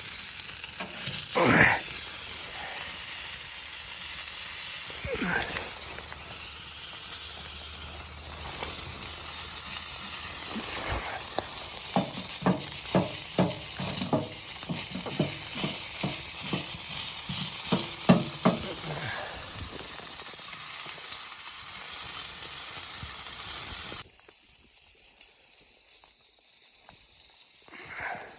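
Food sizzling in a hot pan, with a quick run of strokes from a utensil stirring it in the middle. Twice near the start a brief sound falls in pitch. The sizzle cuts off suddenly near the end, leaving a fainter hiss.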